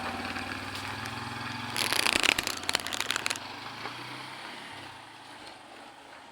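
Motorcycle engine idling steadily, its sound fading away after about two seconds. A loud crackling, rattling noise breaks in about two seconds in and lasts about a second and a half.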